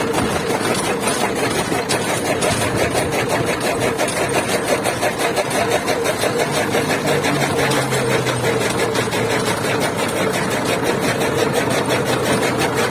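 Tractor diesel engine running steadily while it drives a chaff cutter, with a fast, even mechanical clatter.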